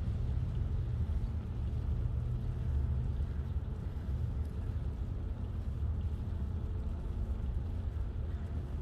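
Steady low rumble of wind buffeting the microphone of a camera riding on a moving bicycle, with no distinct events.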